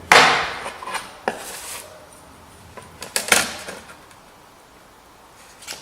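Steel marking-out tools being handled on sheet metal: a few sharp metallic clacks and a short scrape as a rule and square are set down and slid into place. The loudest clack and scrape come right at the start, with others about a second and about three seconds in.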